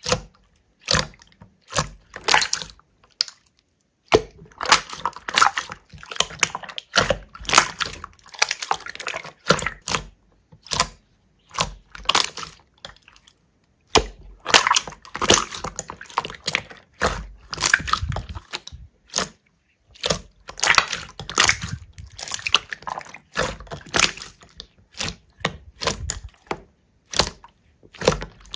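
Hands squeezing and kneading slime: irregular wet squishing and crackling in clusters with short pauses, broken twice by abrupt silences.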